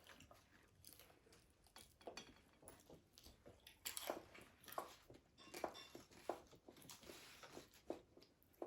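Soft, irregular clicks and crinkles of food being handled while a wrap is filled with fried meatballs and egg rolls, getting busier about halfway through.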